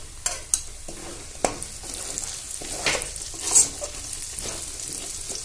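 Garlic paste, a dried red chilli and whole green chillies sizzling in hot mustard oil in a steel wok, with a metal spatula scraping and stirring a few times.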